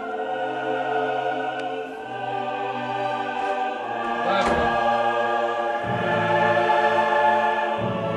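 Background music: a choir singing held chords, with notes changing every second or two.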